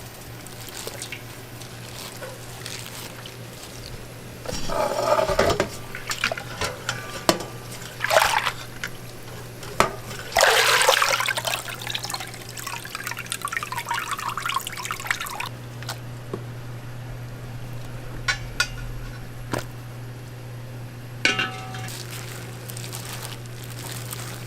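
Food-preparation sounds at a street-food stall: liquid poured or squirted, with scattered clicks and knocks of utensils. A steady low hum runs underneath.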